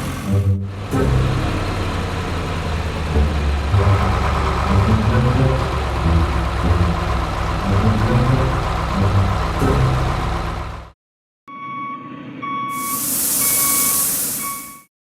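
Truck sound effects: a heavy engine running and revving with shifting pitch for about eleven seconds. After a brief silence, a reversing alarm beeps at an even pace, and a hiss like an air brake's release joins it for the last two seconds.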